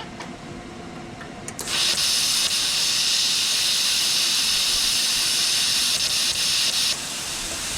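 Plasma cutter running at full power: a loud, steady hiss starts abruptly a little under two seconds in, holds for about five seconds, then cuts off suddenly.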